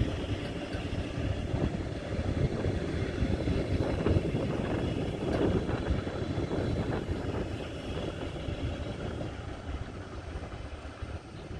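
A train rumbling past, loudest a few seconds in and fading away toward the end.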